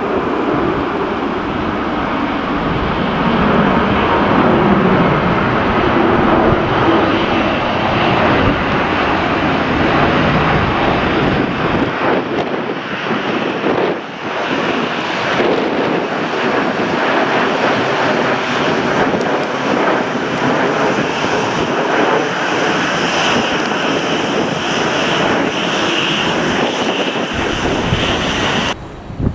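Jet airliner's engines running as it passes close by: a loud, steady roar with a high whine growing stronger in the second half, cutting off abruptly just before the end.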